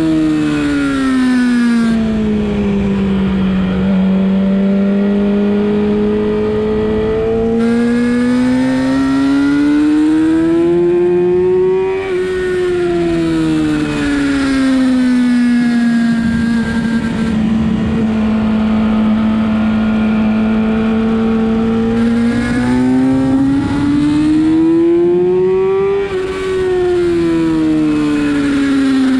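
Sportbike engine running hard on track, its pitch climbing slowly under throttle and dropping again several times, with steady wind rush.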